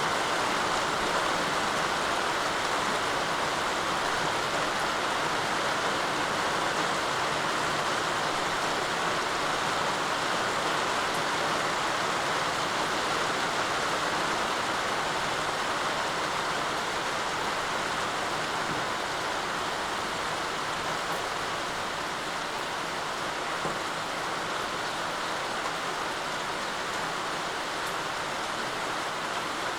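Steady rainfall, a dense even hiss of drops with no separate sounds standing out, easing slightly in the second half.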